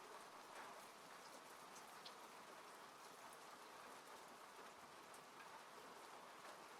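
Faint, steady rain drumming on a car's roof and glass, heard from inside the cabin, with scattered single drops ticking.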